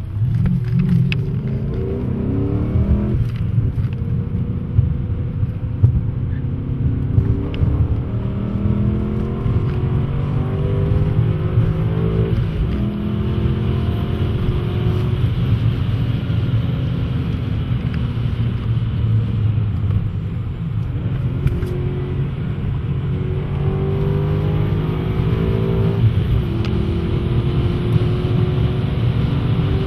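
BMW M5 E39's 4.9-litre V8 with a Supersprint exhaust, heard from inside the cabin under full-throttle acceleration. The engine note climbs steadily through each gear and drops back at each of several upshifts.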